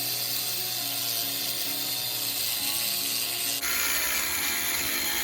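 Warrior 4½-inch 5-amp angle grinder running steadily at full speed, its sound changing abruptly about three and a half seconds in.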